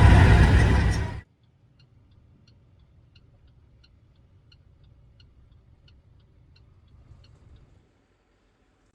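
Loud truck road and wind noise stops abruptly about a second in. Faint, even ticking follows, about three ticks every two seconds over a low hum, and stops near the end.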